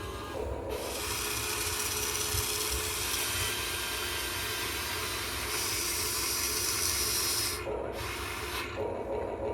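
Huina 1580 all-metal RC excavator running, its small electric motors and metal gearboxes giving a steady hissing whir that starts about a second in and stops near the end.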